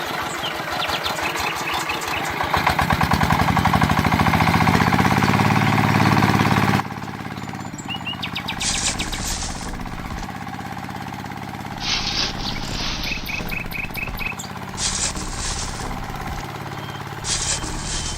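Small engine of a DIY mini tractor running with a fast, even firing rhythm. It speeds up a little a couple of seconds in, then cuts off abruptly about seven seconds in. Birds then chirp in short bursts over a low steady hum.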